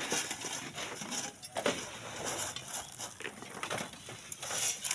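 Loose sand and small stones clattering, with many irregular clicks and knocks over a hiss.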